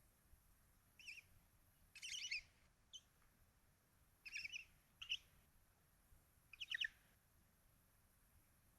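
Barn owls in the nest box giving short, high chittering calls: about six brief bouts of rapid notes spread over six seconds.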